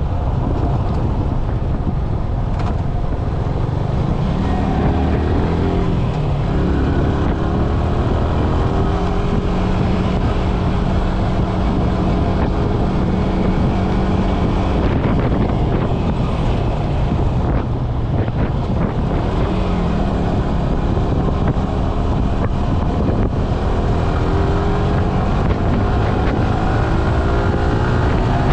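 Yamaha R15 V3's 155 cc single-cylinder engine under way at speed, its pitch rising and falling several times as it is revved and eased off. Heavy wind rumble on the microphone runs underneath.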